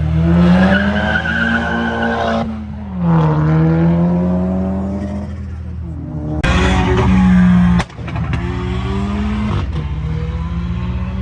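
A car engine revving hard, its pitch climbing and falling several times, with tyre squeal mixed in.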